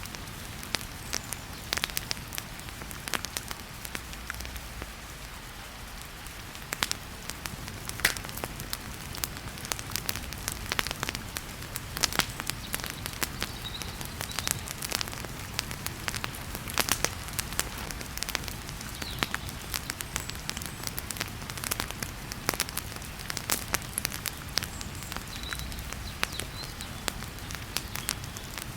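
Wood fire crackling, with sharp irregular pops over a steady hiss of heavy rain.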